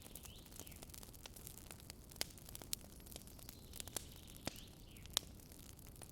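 Campfire crackling: burning wood giving a handful of sharp, irregular pops over a soft steady hiss.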